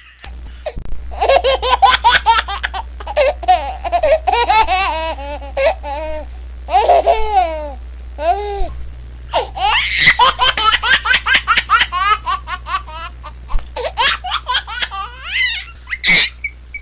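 A baby laughing in repeated runs of quick, pulsing laughs, with brief breaks between fits. A steady low hum sits underneath.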